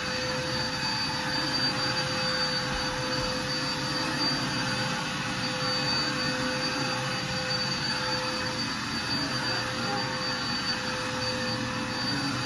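Vacuum cleaner running steadily: an even rush of air under a steady high motor whine.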